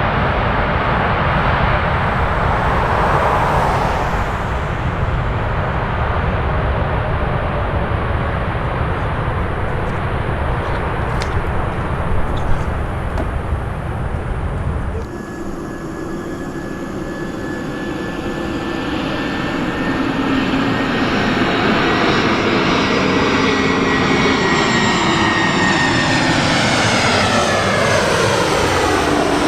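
Jet airliner engines: a steady rumble for the first half, then, after an abrupt change about halfway through, a jet passing by with a whine that falls steadily in pitch.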